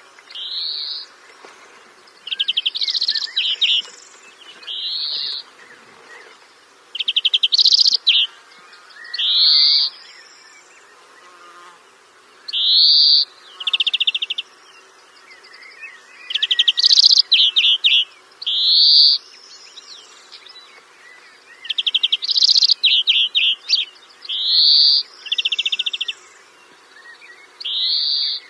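A songbird singing loud, high phrases over and over: quick rising whistled notes alternating with short rapid buzzy trills, a new burst every second or two.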